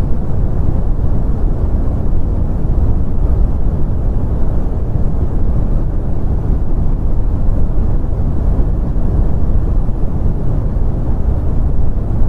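Brown noise: a steady, deep, even rumbling hiss with most of its energy in the low end and little above the mid range, unchanging throughout.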